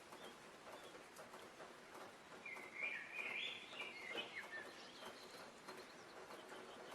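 A songbird singing one quick phrase of jumping notes near the middle, over a faint steady hiss of outdoor ambience.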